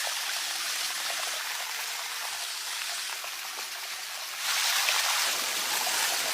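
Steady hiss of falling rain with scattered light patter, growing louder about four seconds in.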